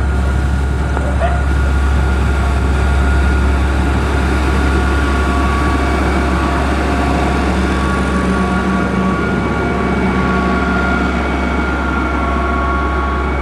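Heavy diesel engine of a motor grader running steadily under load, a deep continuous rumble with a few steady tones above it.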